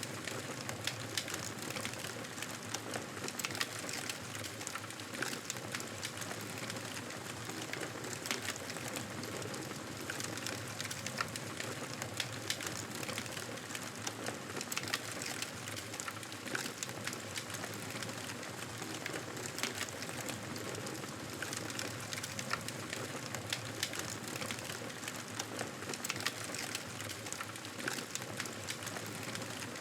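Wood fire crackling steadily, a constant hiss broken by frequent short pops and snaps.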